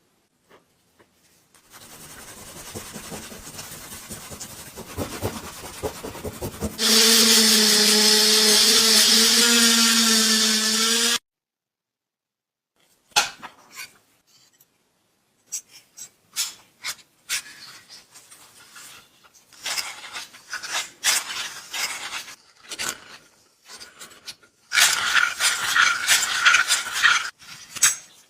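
Workshop restoration sounds on metal parts: a stretch of rough rubbing or scrubbing, then a power tool running loud and steady for about four seconds before cutting off. After a pause come scattered clicks, knocks and scraping of parts being handled, with a louder bout of scraping near the end.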